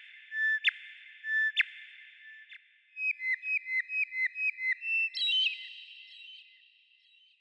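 A songbird singing clear whistled notes: three notes about a second apart, then a quick run of about nine short notes, then a higher trill that fades, with an echoing tail.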